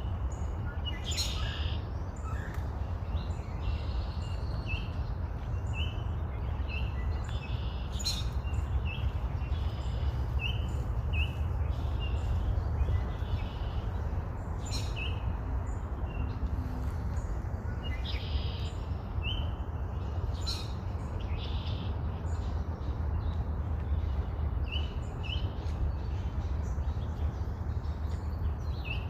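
Small backyard birds chirping at a log feeder: short, high chirps come every second or so with a few sharper calls, over a steady low rumble.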